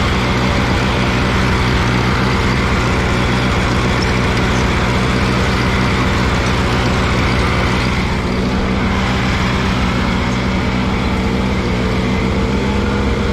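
Allis-Chalmers G tractor's small four-cylinder gasoline engine running steadily under load, pulling a lowered cultivator through a crop row in first gear.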